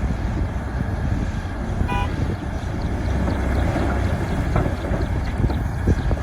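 Heavy diesel earthmoving machinery running with a deep, steady rumble, and a brief high tone about two seconds in.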